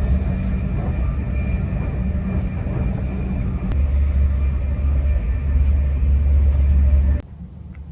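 Stadler Class 745 FLIRT electric train running at speed, heard from inside the carriage: a steady rumble with a low hum. The rumble grows heavier about halfway through and cuts off suddenly near the end.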